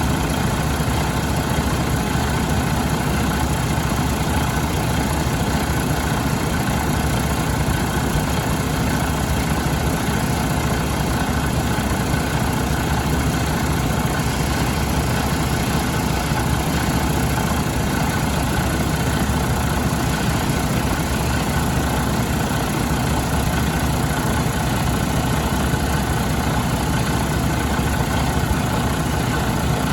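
2017 Detroit DD15 inline-six diesel engine idling steadily.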